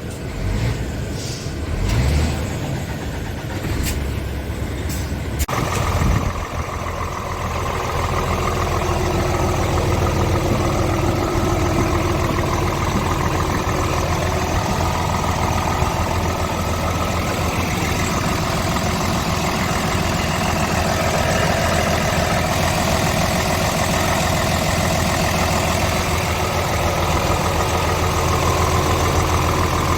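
Scania R tractor unit's diesel engine starting about five seconds in, after a few knocks and clicks, then idling steadily.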